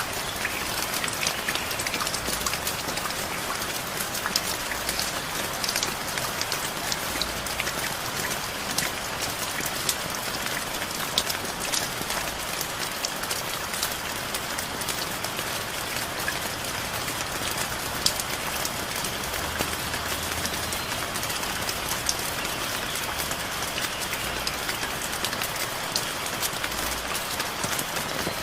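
Heavy rain falling steadily, a dense hiss dotted with the sharp taps of individual drops hitting surfaces.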